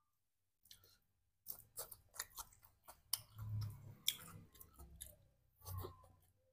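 A person chewing a mouthful of food close to the microphone, with irregular wet mouth clicks and smacks, starting about a second in after a brief silence.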